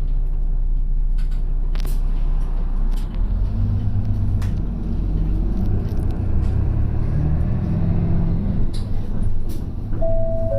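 Route bus running under way, heard from inside the cabin: a steady engine and road rumble, with the engine note rising through the middle and easing off near the end. Near the end comes a two-note chime, high then lower.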